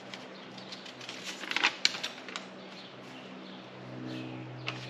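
A paper instruction sheet being handled and unfolded, crinkling and rustling in short bursts. A low steady hum comes up near the end.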